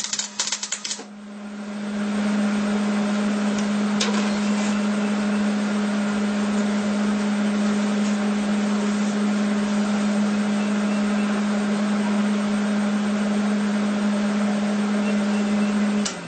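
MIG welding arc crackling and sputtering, which stops about a second in. A steady loud machine hum at one pitch then rises in and holds until it cuts off abruptly near the end.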